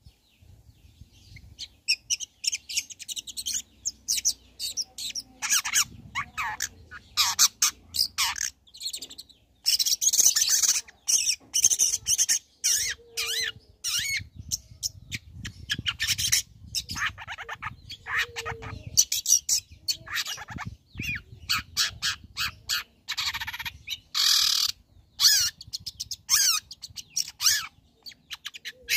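Long-tailed shrike (cendet) singing busily: a rapid string of short, harsh chattering notes and squeaky whistles with brief pauses, broken by louder raspy bursts about ten seconds in and again near twenty-four seconds.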